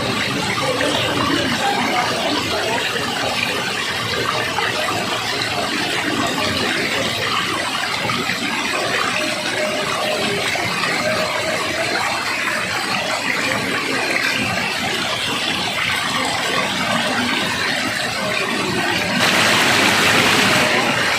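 Rushing water running steadily. About nineteen seconds in it turns suddenly louder and hissier.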